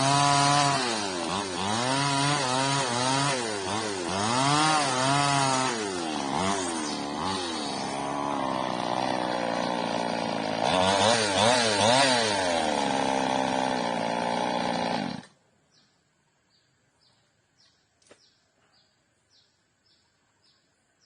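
Two-stroke chainsaw revving up and down repeatedly as it cuts the old frond stubs off an oil palm trunk. It holds a steady pitch for a couple of seconds, revs again, then cuts off suddenly about fifteen seconds in, leaving faint, regular chirping.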